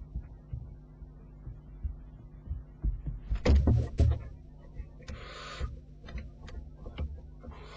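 A barn owlet gives two hissing "snore" calls, each about half a second long, over a steady low hum. A cluster of loud knocks and thumps comes midway, louder than the calls.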